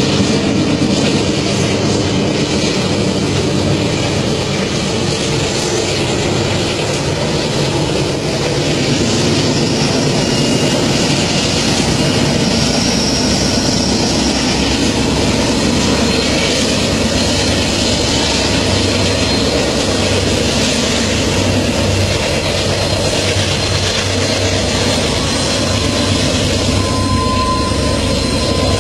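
Long diesel freight train running past: a steady, loud rumble of locomotive engines and rolling wheels. A thin, high wheel squeal sounds briefly near the end.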